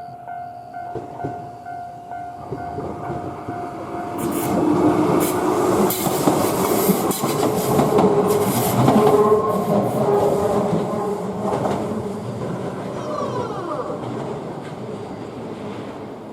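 Shizuoka Railway electric train passing through a curve: wheels clattering over the rails with a motor whine, loudest from about four to twelve seconds in, then fading. A pulsing tone at the start stops about four seconds in.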